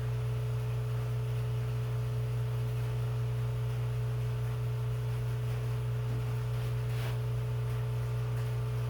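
Steady low hum with a fainter, higher steady tone over it, and one faint click about seven seconds in.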